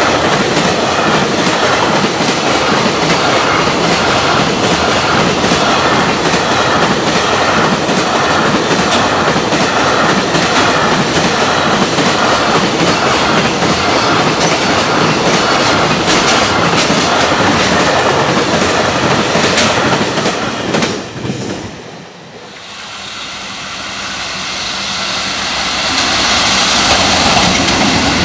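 A long freight train's container wagons pass close at speed, their wheels clacking over the rail joints in a steady, repeating rhythm. About 21 seconds in the sound cuts away. The rumble of a second approaching freight train then grows steadily louder.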